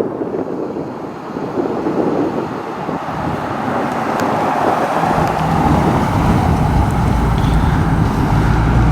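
Dodge Challenger Hellcat's supercharged 6.2-litre V8 running close by. About five seconds in, its deep, steady rumble grows louder as the car pulls up.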